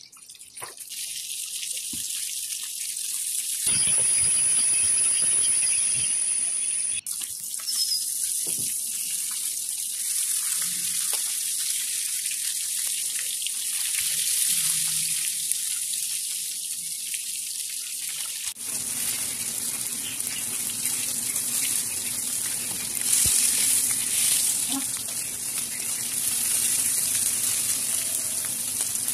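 Whole spice-coated fish sizzling as they shallow-fry in hot oil in a frying pan: a steady high hiss whose character changes abruptly a few times.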